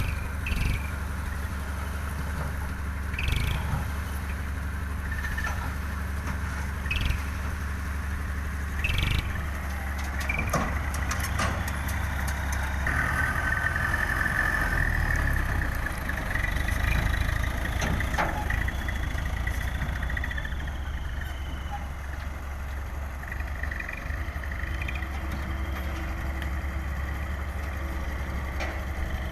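Dump truck's engine running steadily with a low, even rumble, with a few scattered clicks and knocks.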